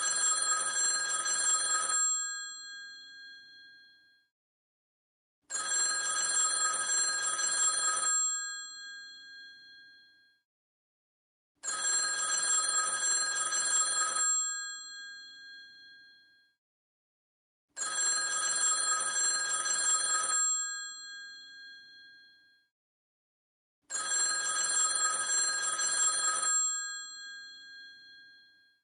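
Old telephone's bell ringing in five repeated rings, each about two seconds long and then dying away, with about four seconds of silence between rings.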